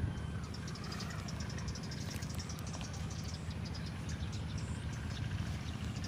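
Locomotive engine idling with a low steady hum, with insects chirping faintly over it.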